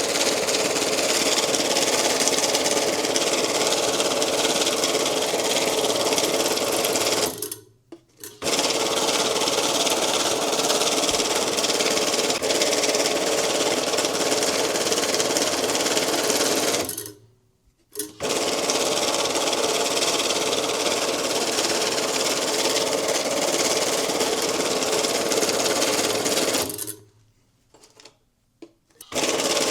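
Electric banknote counting machine running, riffling through stacks of bills in steady runs of about eight seconds. It stops briefly twice and again near the end.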